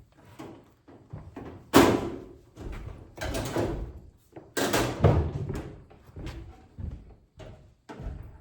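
Irregular knocks and clunks from a microwave oven's metal casing being handled during disassembly, the loudest about two and five seconds in.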